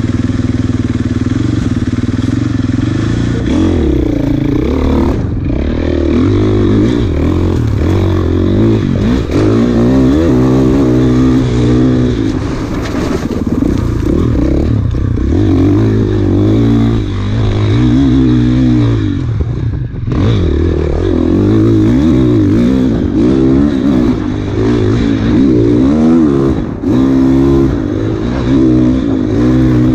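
Off-road enduro motorcycle engine revving under load, its pitch repeatedly climbing and dropping back as the throttle is worked and gears change, with clatter from the bike over rough ground.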